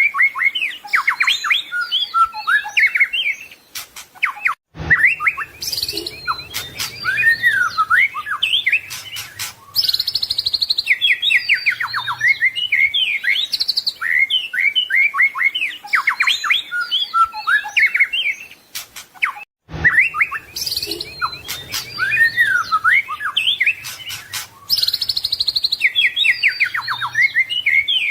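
White-rumped shama (murai batu) singing a rapid, varied song of whistles, chips, trills and slurred glides, with two brief breaks.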